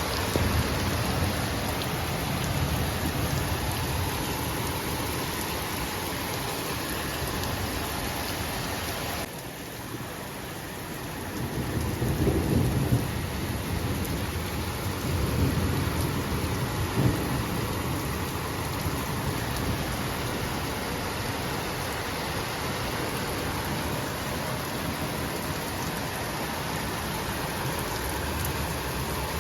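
Heavy rain pouring down in a steady hiss. Deep rumbling swells come through about twelve and sixteen seconds in.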